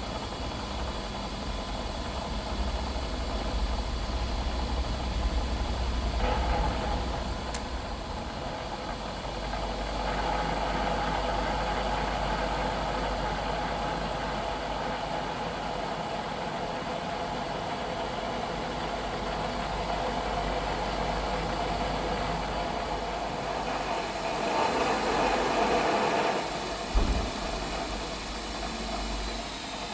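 Milling machine spindle running steadily while a boring tool takes a light finish cut in the bore of a welded-on steel cylinder-rod eye, bringing the bore to final size. A single sharp knock sounds near the end.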